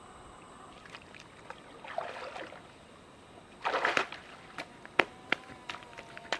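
Water splashing in two short bursts, the louder one about four seconds in, followed by several sharp clicks and knocks.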